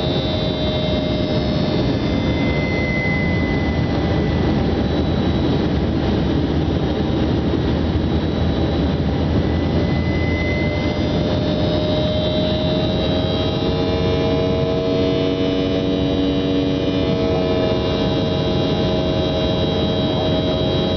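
Aircraft engines running with a steady drone and several held whining tones, which drift slightly in pitch partway through.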